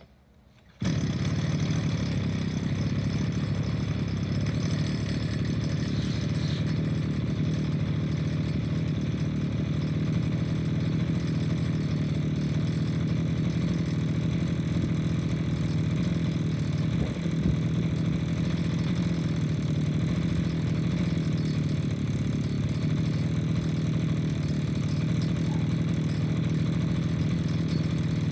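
Gas-powered lawn edger engine running steadily at idle just after a cold start on full choke, after a gap of under a second near the start.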